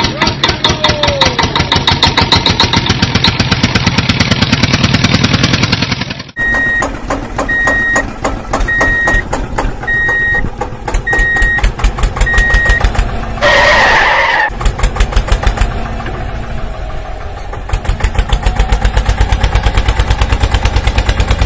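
Truck engine running with a fast pulsing chug, cutting off abruptly about six seconds in. A row of evenly spaced high reversing beeps then sounds over the running engine, followed by a short hiss. The engine chugs strongly again near the end.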